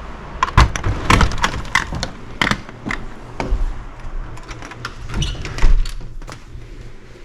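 Irregular knocks, clicks and clunks with footfalls, the sound of someone walking about and handling things, likely a door; the loudest knocks fall about half a second, one second, two and a half and five and a half seconds in, and it thins out near the end.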